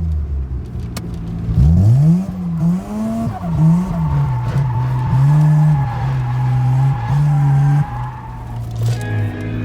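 Drift car's engine revving hard, pitch jumping up and down repeatedly about two seconds in, then holding a high steady note before dropping off near the end, with tyres squealing steadily through the slide.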